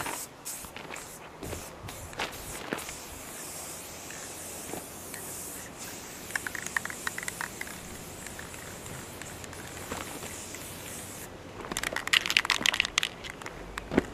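Aerosol spray-paint can hissing as paint is sprayed, with wind noise on the microphone. Near the end the hiss stops and a quick run of sharp clicks and crackles follows.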